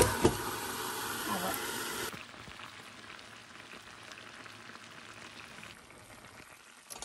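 Goat meat and bones sizzling in oil in a metal kadai, a steady frying hiss that drops quieter about two seconds in. A glass lid clinks into place at the very start.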